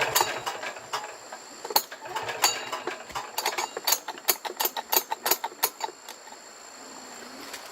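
Metal hand tools clicking and clinking against plow machinery parts during repair work: scattered sharp clicks, then a quicker run of about three a second for a couple of seconds past the middle.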